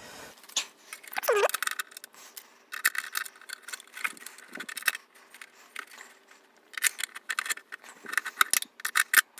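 Small metal tools and parts being handled, with repeated clinks and rattles, busiest near the end, and a short falling squeak about a second in.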